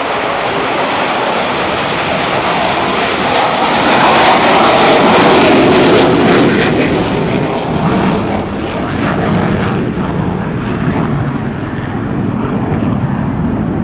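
An airplane's engine noise swelling as it flies past, the pitch dropping as it goes by about halfway through, then a steadier, lower rumble as it moves away.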